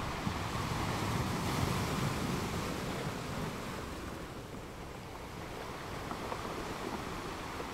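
Ocean surf breaking and washing up a sandy shore, a steady rush that swells a second or two in, eases around the middle and builds again near the end.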